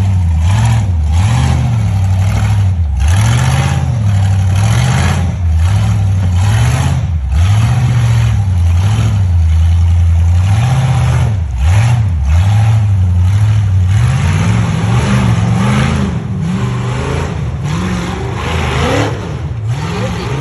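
Off-road vehicle engine revving up and down again and again under load, its pitch rising and falling, with repeated bursts of noise over it.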